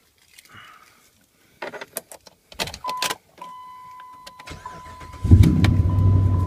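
A few clicks and knocks, then a steady high-pitched tone from about three seconds in, and about five seconds in the Dodge Ram 1500's 5.7-litre Hemi V8 cranks and starts, running loudly.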